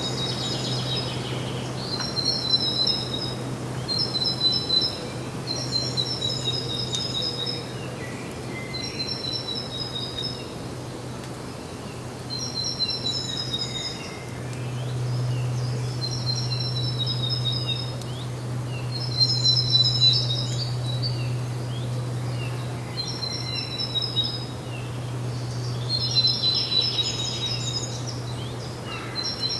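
A songbird singing short phrases of rapid, evenly repeated high notes, one phrase every couple of seconds, over a steady low hum that grows louder about halfway through.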